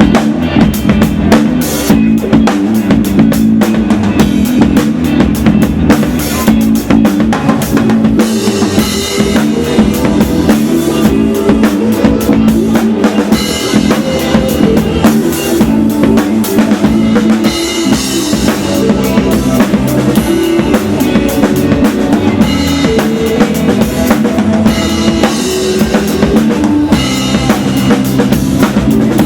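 A live band playing the song without vocals: the drum kit, with kick and snare, drives a steady beat under sustained low guitar and bass notes.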